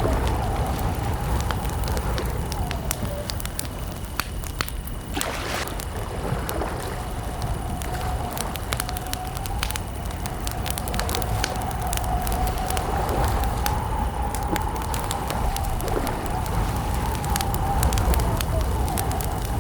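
Campfire crackling, with frequent sharp pops and snaps over a low rumble. A steady, slightly wavering tone runs underneath, with faint high, even chirring like crickets.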